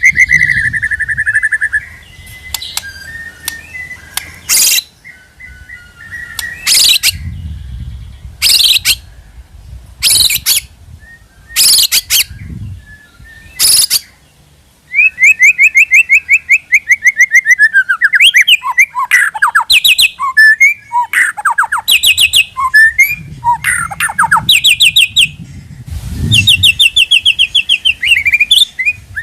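White-rumped shama (murai batu) singing: rapid trilled and whistled phrases, broken in the first half by six short harsh bursts about every second and a half, then dense, loud trilled phrases running on through the second half.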